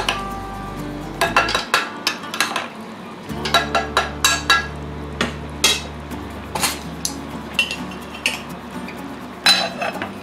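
Stainless steel tongs and a ladle knocking and clinking against a stainless steel pot, a run of sharp metal clinks that come in several clusters.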